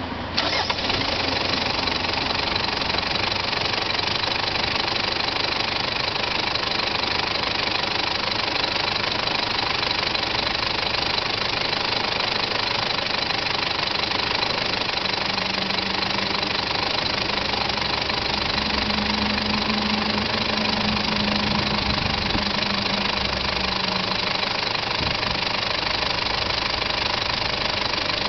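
Mitsubishi Pajero's 4M40 2.8-litre four-cylinder turbo-diesel idling steadily with diesel clatter; the sound becomes sharply louder about half a second in.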